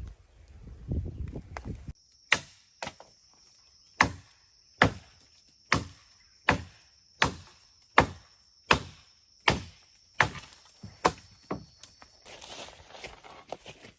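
Axe chopping wood: about a dozen sharp strokes, a little over one a second, then handling noise.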